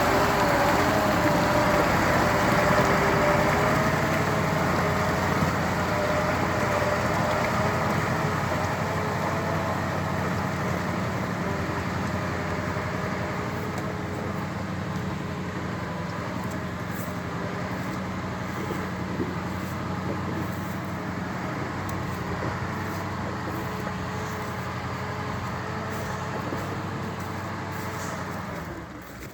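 A heavy vehicle's engine running steadily under load as it hauls timber off-road, with a wavering mechanical whine over a low hum. It grows gradually quieter as it moves away, then drops off abruptly near the end.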